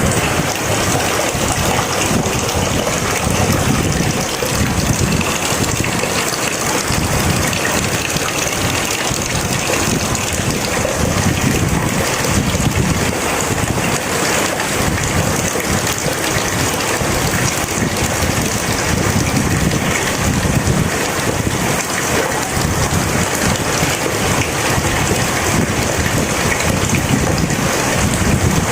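Steady rain falling: a dense, even hiss with a low, shifting rumble underneath.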